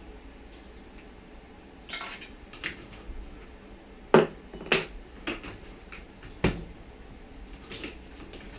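Metal tools and parts of a motorcycle rear shock absorber clinking and knocking as it is taken apart: a handful of separate sharp metallic knocks, the loudest about halfway through.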